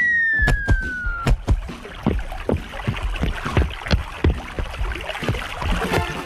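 Cartoon sound effects: a descending whistle glides down in pitch for about a second, then a rapid, uneven run of knocks and thumps over a noisy wash.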